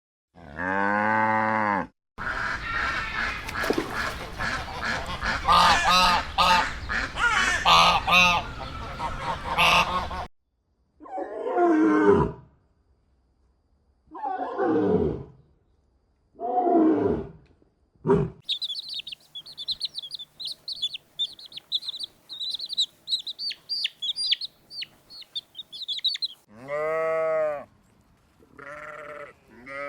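A run of farm animal calls: a flock of geese honking together for about eight seconds, then three separate calls that fall in pitch, then high, rapid chirping from small birds for about eight seconds, and bleat-like calls near the end.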